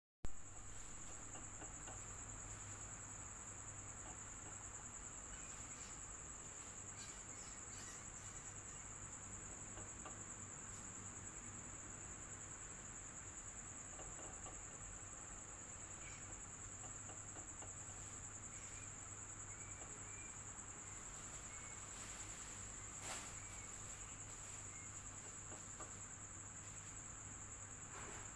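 Electric fan running steadily with a low hum, under a continuous high-pitched ringing tone. A brief faint knock comes late on.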